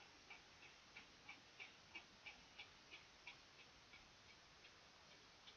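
Faint, evenly spaced clicks, about three a second, from a hand ratchet wrench working a 14 mm brake caliper bolt loose. The clicks fade out after about three and a half seconds.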